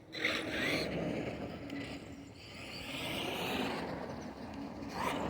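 Radio-controlled monster truck driving, its motor whining and rising and falling in pitch as it runs over the ground.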